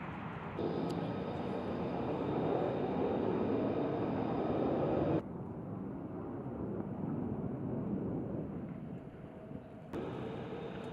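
Jet aircraft engine running: a steady rush of noise with a thin high whine above it, cut abruptly between shots about half a second in, about five seconds in and near the end.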